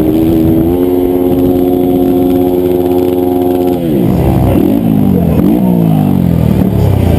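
A 160cc single-cylinder racing motorcycle engine held at high revs, then the revs drop away in several falling sweeps, each broken by a short rise, as the bike shifts down and slows.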